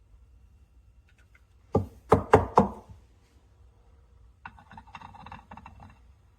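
Four quick, sharp knocks of a hard object on a hard surface, then a fainter rattling clatter of handled kitchen items about two seconds later.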